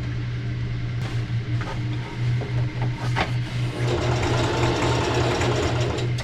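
A steady low mechanical hum that pulses from about two seconds in, with a rasping metal-on-metal grate from about four seconds in as a nut is run back off the freshly cut end of a bolt, straightening the damaged thread.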